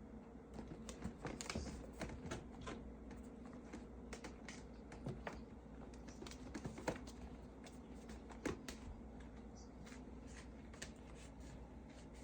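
Irregular light clicking and scuffing of a cat's claws and paws on the floor as it spins round chasing its tail, busiest in the first half, with a couple of sharper ticks later on.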